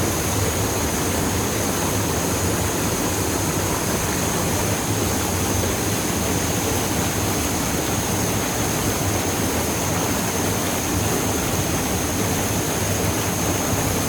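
Waterfall's steady rushing of falling water, with a thin steady high whine above it.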